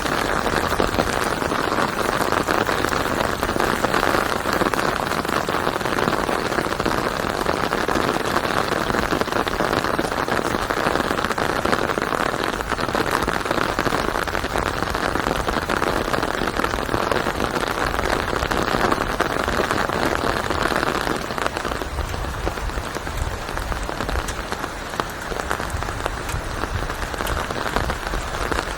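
Steady rain falling: a dense, even patter. About two-thirds of the way through, the higher hiss eases a little and a low rumble comes up underneath.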